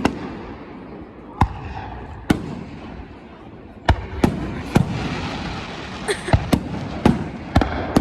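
Fireworks bursting with sharp bangs, about ten in all, coming faster from about halfway through with crackling between the bangs.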